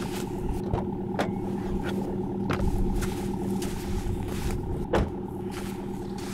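SUV engine idling with a steady hum, while a few sharp knocks sound over it, the loudest about five seconds in.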